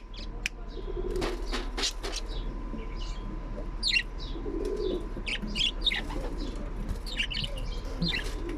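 Young pet parrot chirping in many short, high calls, with a burst of wing flapping about a second in.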